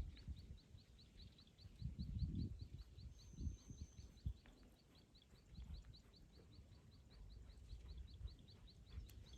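Quiet outdoor ambience: a steady, rapid high chirping, about four chirps a second, with scattered low thumps and rumbles.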